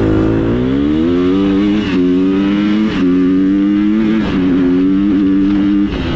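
Motorcycle engine accelerating hard through the gears, its pitch climbing and then dipping briefly at each of about four shifts. Near the end the throttle closes and the engine drops to a rougher, lower note.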